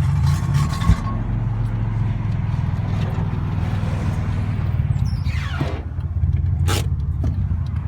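Car engine and road noise at highway speed, a steady low drone heard from inside the car, with a knock about a second in and a brief falling sweep in pitch around five seconds in.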